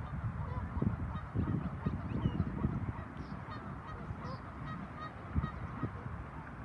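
Waterfowl calling repeatedly in short notes, with wind rumbling on the microphone.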